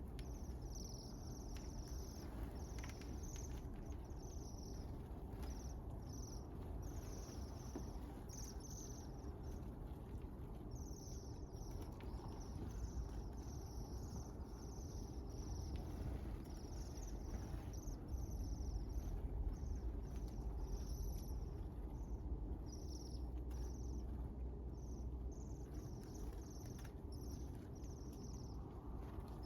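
A flock of small birds chirping, many short high calls overlapping, over a steady low rumble of wind or background noise.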